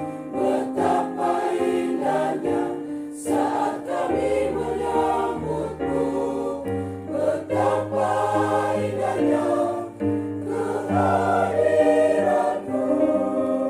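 Church choir singing a hymn in several voices at once.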